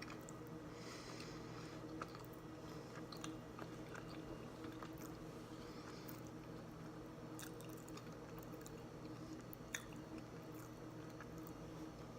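Close-up chewing of a salted caramel protein bar: soft, wet mouth sounds and small clicks, with a sharper click near the end. A faint steady hum runs underneath.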